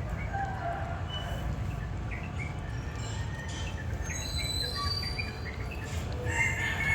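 Birds chirping with short scattered calls over a steady low rumble, and a louder burst of calls near the end.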